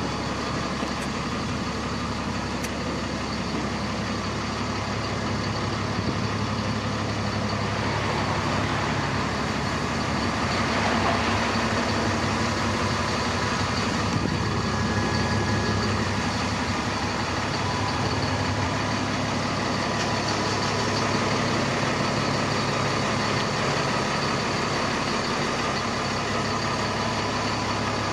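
DAF CF65 truck's diesel engine idling steadily.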